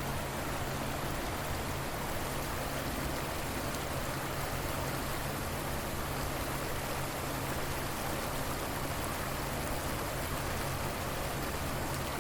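River water flowing, a steady, unchanging sound.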